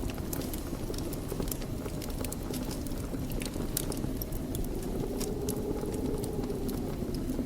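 Wood fire in a fireplace crackling, with frequent sharp pops and snaps over the steady low rush of the flames. A faint low whistle grows stronger about five seconds in.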